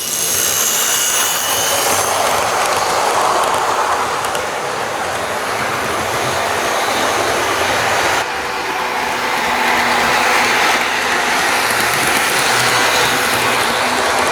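Bachmann HO scale model train running on its track, its locomotive motor and wheels making a steady whirring run that starts suddenly and dips briefly about eight seconds in.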